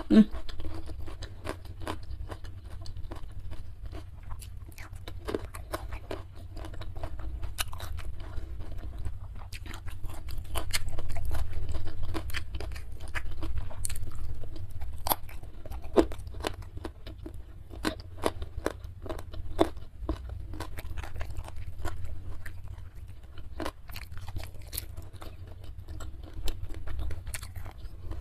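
A person chewing crunchy food close to the microphone: irregular, crisp crunches throughout, over a faint low steady hum.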